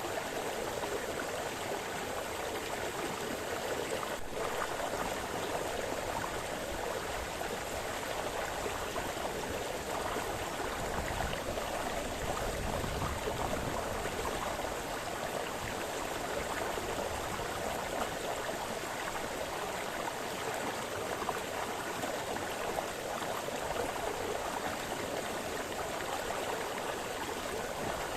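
A small brook splashing and burbling over stones, a steady, even rush of water.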